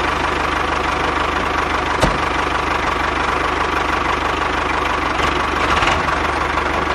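Engine idling steadily with a fast, even knocking beat, and one sharp click about two seconds in.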